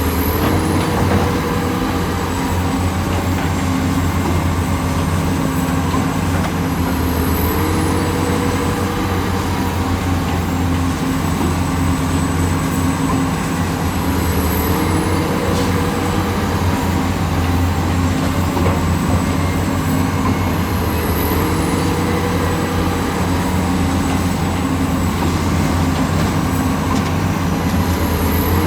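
Heavy diesel construction machinery running steadily under work, a deep engine drone with a shift in pitch that comes back about every six to seven seconds.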